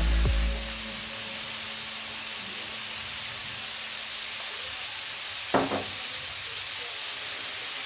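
Food frying in a pan, a steady sizzling hiss, with a single knock about five and a half seconds in.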